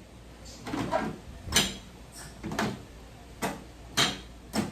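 Dishes, cups and cutlery being handled and set down: about eight short, irregular knocks and clinks, some with a brief bright ring.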